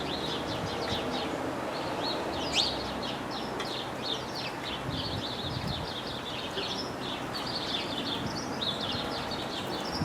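Small songbirds chirping continuously, many short quick calls overlapping, over steady background noise.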